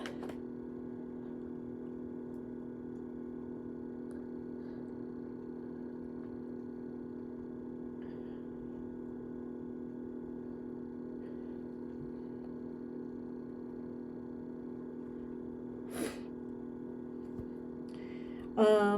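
Steady low hum in a quiet room, interrupted by one short sharp noise about sixteen seconds in and a brief voice sound just before the end.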